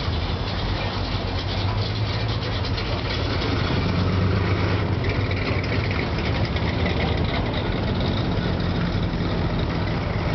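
Classic American cars driving slowly past one after another, their engines running at low revs in a steady low rumble.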